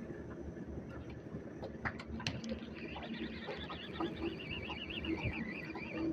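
A bird's warbling call, a wavering high trill lasting about three seconds that starts about three seconds in. Under it runs a low steady rumble, with a few sharp clicks.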